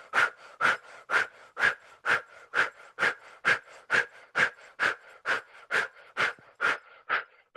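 Powerful rhythmic breathing through the mouth, a sharp breath about twice a second, kept up steadily as part of a Kundalini yoga breathing exercise.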